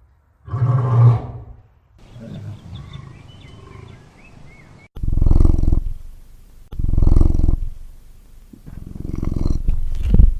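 Lion roaring: one long roar, then after a quieter pause with faint chirping, a series of three deep, loud roars about two seconds apart.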